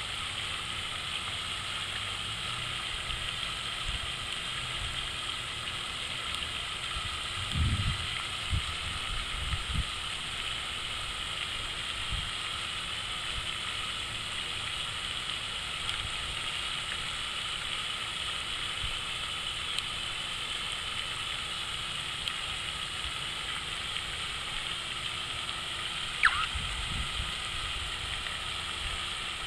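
Water fountain splashing and trickling steadily. Low rumbles come twice, and one short sharp sound is heard near the end.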